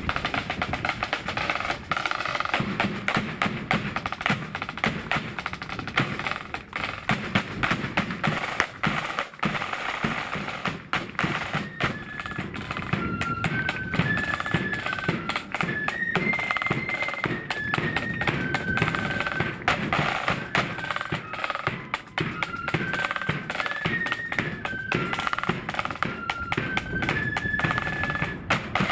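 Marching flute band on parade: snare drums playing dense rolls over a bass drum beat. About twelve seconds in, the flutes come in with a tune over the drums.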